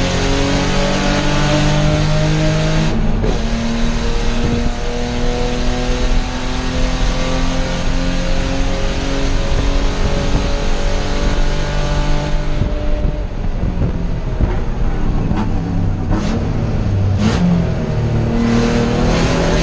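Spec E30 (BMW E30) race car engine heard from inside the stripped cabin under racing load: revs climb, break briefly for an upshift about three seconds in, and climb steadily for a long stretch. About twelve seconds in the revs fall as the car slows, with a few short sharp sounds, then the engine pulls again near the end.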